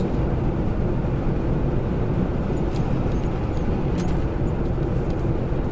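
Steady engine and road noise of a semi-trailer truck driving, heard from inside the cab, with a few faint ticks around three and four seconds in.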